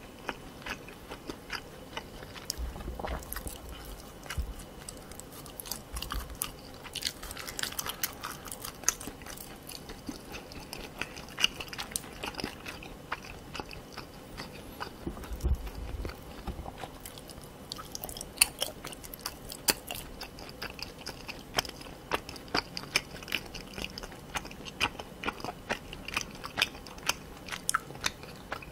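Close-miked chewing with many sharp, irregular crunches: a person eating spicy Korean pork cartilage and chicken feet, the cartilage crunching between the teeth.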